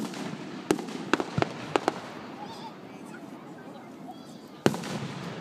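Fireworks going off: a sharp bang right at the start, a quick run of about five cracks over the next two seconds, then another bang near the end, over steady background noise.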